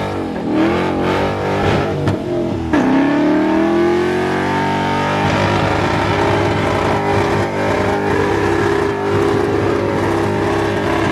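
Car engine accelerating: its pitch drops, then picks up again sharply a little under three seconds in and climbs over a couple of seconds before holding steady at a constant speed.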